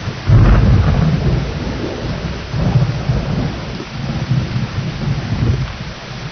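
Rain falling with thunder: a loud low rumble breaks in suddenly a moment in, swells again about halfway, and slowly fades.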